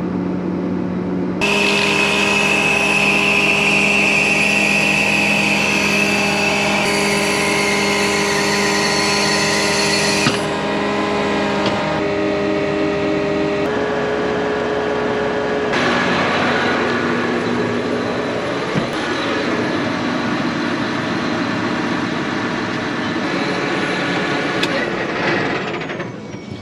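An engine running with a steady drone and a high whine over it. The pitch and mix change abruptly several times, like separate clips cut together.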